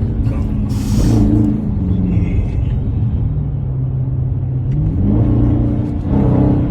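Supercharged V8 of a Dodge Hellcat under hard acceleration, with a brief hiss about a second in; its pitch sinks and then climbs again about five seconds in.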